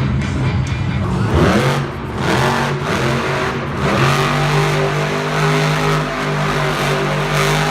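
Monster truck engine revving hard, its pitch climbing several times in quick succession in the first half, then held at high revs.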